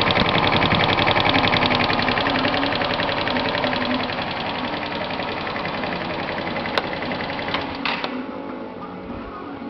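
A 125 cc moped engine, fed HHO (oxyhydrogen) gas, running with a fast, even firing rhythm. It gets quieter partway through, and its beat cuts out about eight seconds in, with a few clicks just before.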